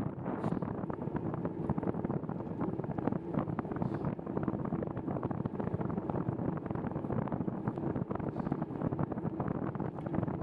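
Wind buffeting the microphone of a moving bicycle rider, a steady rough rumble with crackle.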